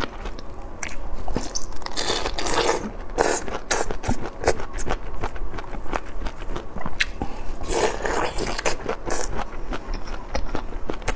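Biting into and chewing a whole boiled bamboo shoot: crisp crunching and wet chewing close up, louder about two seconds in and again about eight seconds in.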